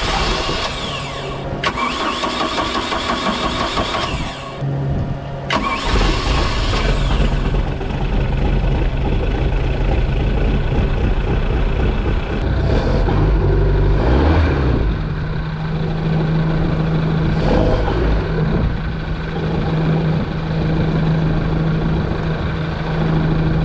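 MerCruiser 3.0L four-cylinder inboard engine of a Bayliner Capri starting and running. Three loud surges of engine noise with shifting pitch come in the first seven seconds, then it settles to a steady idle in the second half.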